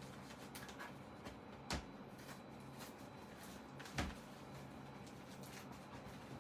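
Quiet handling noises while a zippered Bible cover is taken apart: a few soft ticks and two short, sharp knocks about two seconds apart, over a steady low hum.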